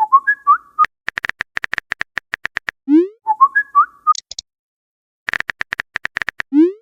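Chat sound effects: short rising whistle-like message tones, each followed by a quick run of sharp clicks like keyboard typing. The pattern comes twice more.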